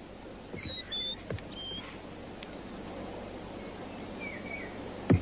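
Bird chirps over a quiet outdoor background: a few short chirps in the first two seconds and a couple more about four seconds in. A single sharp thump comes near the end and is the loudest sound.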